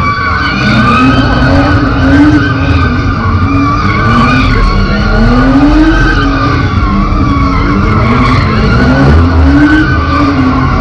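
Car doing a burnout: the tyres screech without a break while the engine revs rise and fall again and again, about once a second.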